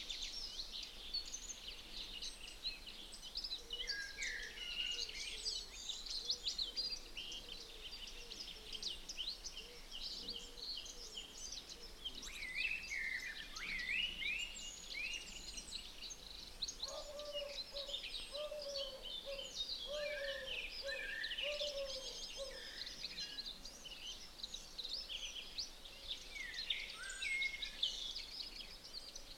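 Several birds singing at once in a dense, continuous chorus of high chirps and trills. A lower call of about five short notes repeats in the middle.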